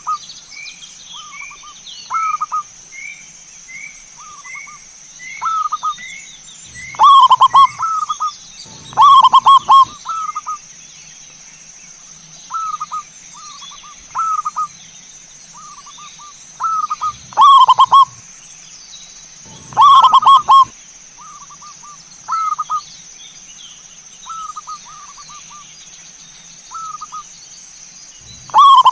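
Zebra doves (perkutut) cooing in repeated short rolling phrases. A loud nearby bird calls every few seconds, and softer cooing from other doves comes in between.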